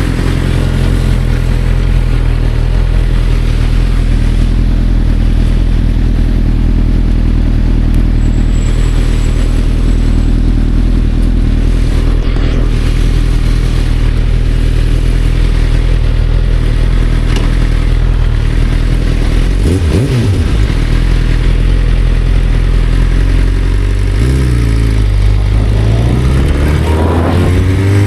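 Motorcycle engine running at a steady speed while riding. About two-thirds of the way through it revs briefly up and back down, and near the end it drops and then climbs in pitch again as the bike accelerates.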